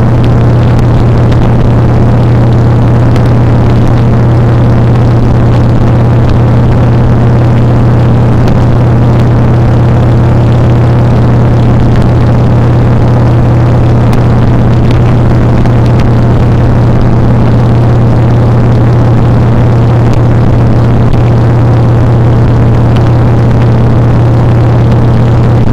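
Motorcycle engine running at a steady, unchanging speed while riding, a constant low drone with no revving up or down.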